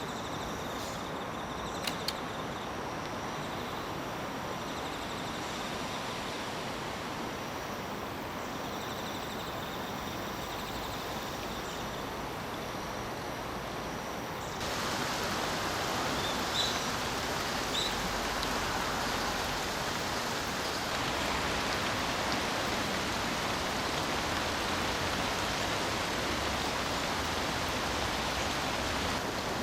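Steady outdoor ambient noise with faint insect chirping in the first half. About halfway it changes abruptly to a louder, fuller steady rushing noise.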